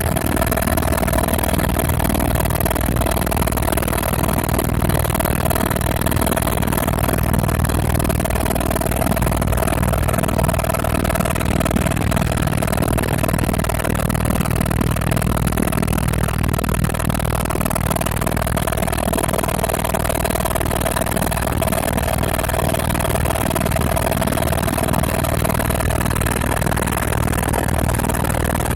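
Helicopter in flight: steady engine and rotor noise, a constant low rumble with a held mid-pitched tone over it, unchanging throughout.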